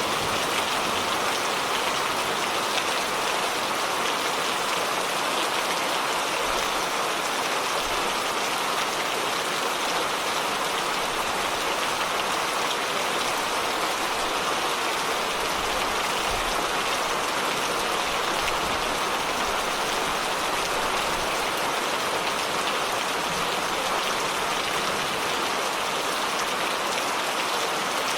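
Rain falling steadily on surfaces, an even hiss that neither builds nor breaks.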